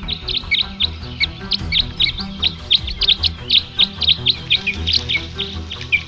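Birds chirping: a quick, continuous run of short, high chirps, several a second, each dropping in pitch. Low background music runs underneath.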